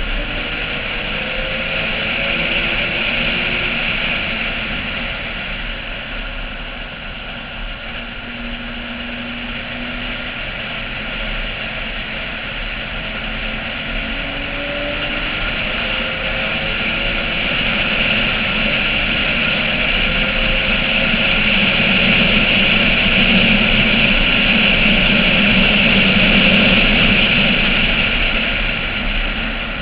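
Porsche 996 flat-six engine on track, its pitch climbing and dropping through the gears, under a loud steady rush of wind over the roof-mounted camera. The sound swells louder toward the last third.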